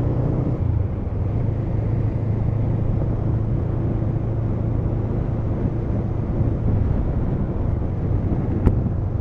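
Road vehicle in motion at a steady pace: a constant low engine hum with road noise. A single sharp click sounds near the end.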